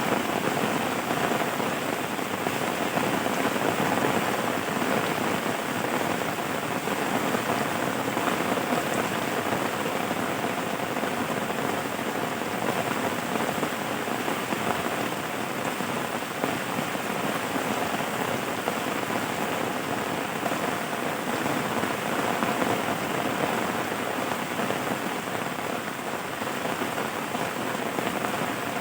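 Steady rain falling, an even, unbroken hiss of dense drops that keeps the same level throughout.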